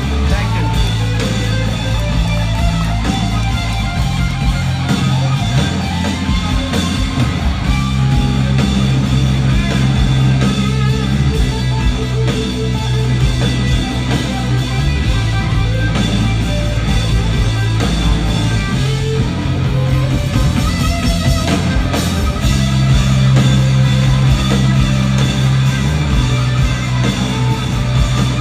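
Loud rock band playing, with electric guitar, bass and drum kit over steady sustained bass notes.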